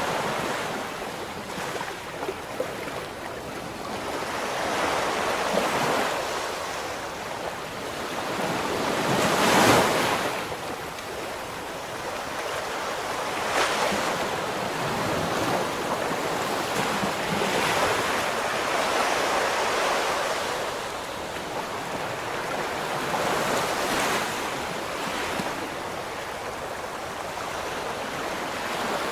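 Ocean surf: waves breaking and washing up the shore, the rush swelling every few seconds, the biggest about a third of the way through, with some wind on the microphone.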